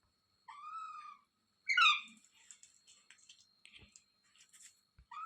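Pet rose-ringed parakeet calling: an arched call about half a second in, then a louder, falling call near two seconds, followed by soft chattering and clicks.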